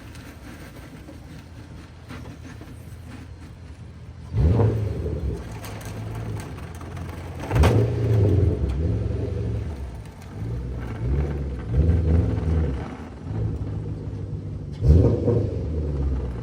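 Infiniti Q45's V8 engine running low, then revved in three sharp bursts: a few seconds in, again about three seconds later, and near the end, with uneven engine running between them.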